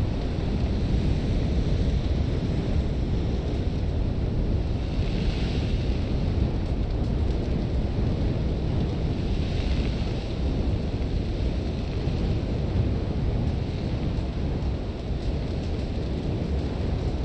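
Sandstorm wind: a steady, heavy low rumble of gusting wind, with blown sand hissing in louder swells about five and ten seconds in.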